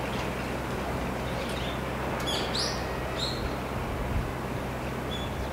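A small bird chirping a few short times about halfway through, over the steady low hum of an idling vehicle engine.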